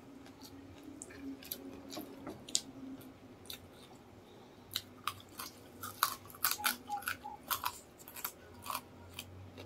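Close-miked chewing and crunching of chicken feet adobo and crispy chicken skin, with sharp crackly crunches that come thicker in the second half.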